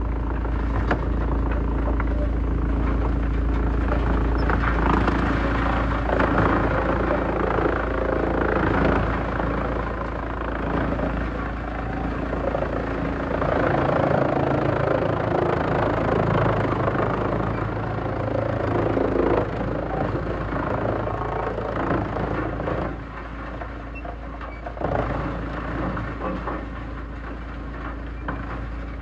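Heavy-duty wood shredder running under load: a steady machine drone with the crunching and cracking of wood being broken up, easing off somewhat near the end.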